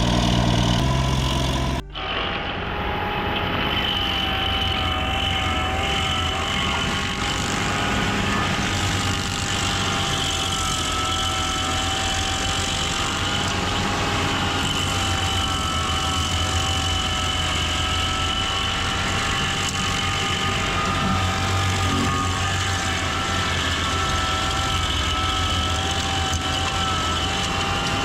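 A heavy machine's engine running steadily under load, with a steady, slightly wavering whine over it. The sound changes abruptly about two seconds in, then holds steady.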